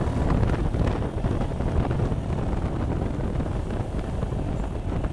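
Steady wind rush on the microphone of a moving motorcycle, with the Suzuki Gixxer 155's single-cylinder engine running underneath at cruising speed.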